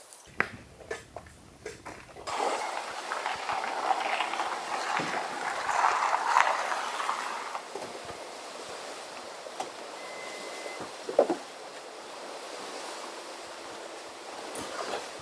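Small waves lapping at a lakeshore, a steady splashing wash that is louder for a few seconds and then settles softer, with a few light clicks before it starts.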